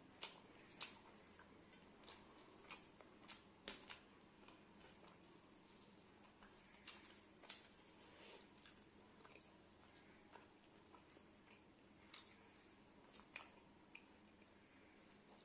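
Faint eating sounds: a person chewing, with irregular short wet clicks and smacks of mouth and lips.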